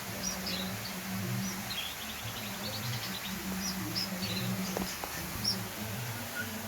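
White-rumped shama (murai batu, blorok variety) singing: scattered short high whistles and quick trills, over a low steady hum.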